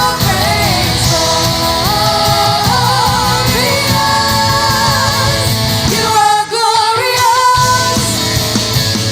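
Worship band playing a rock-style praise song with a lead vocalist singing over electric guitar and drums. The low end drops out briefly about six and a half seconds in, then the full band comes back.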